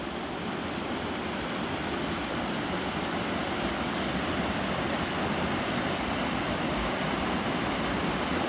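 Creek running after heavy rain: a steady rush of flowing water that grows slightly louder.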